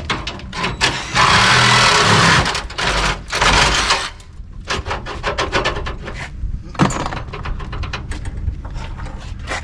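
Workshop tool noise: repeated metallic clicks, knocks and clanks of tools on the car. There are two loud hissing bursts of noise, the first lasting just over a second and starting about a second in, the second shorter, about three seconds in.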